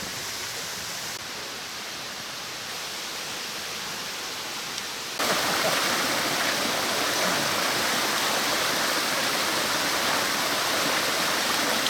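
Mountain stream rushing over rocks, a steady wash of water noise. It becomes suddenly louder about five seconds in.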